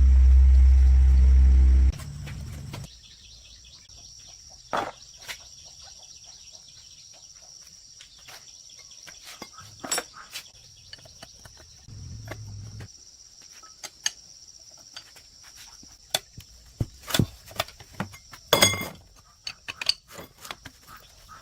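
A low steady rumble that stops abruptly about two seconds in, then insects chirping steadily with scattered sharp clicks and knocks, like tools or metal parts being handled.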